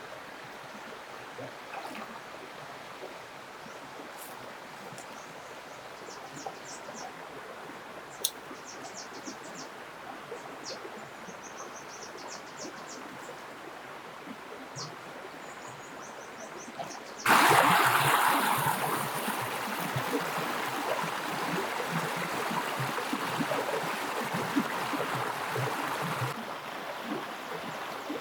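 Water suddenly starts gushing and splashing about two thirds of the way in, running loud and steady for about nine seconds, then continuing more softly. Before it there is only a faint background with short, high bird-like chirps.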